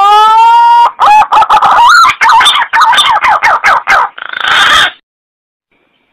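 Green pigeon (punai) call played as a hunting lure: a rising whistle, then a run of wavering, warbling whistled notes, ending with a short rough burst and stopping about five seconds in.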